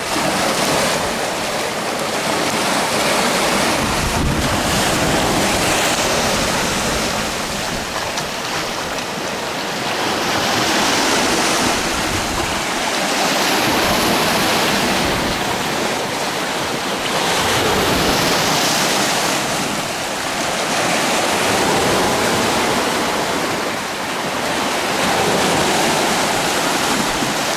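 Lake Superior waves breaking on the shore, a steady wash of surf that swells and eases every few seconds, with wind gusting on the microphone now and then.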